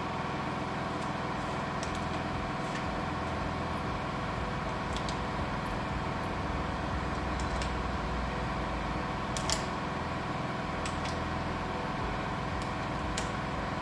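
A steady mechanical hum at an even level, with a few faint light clicks over it.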